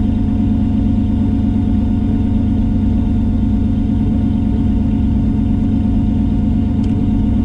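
Single-turbo LS V8 idling steadily, heard from inside the race car's cabin.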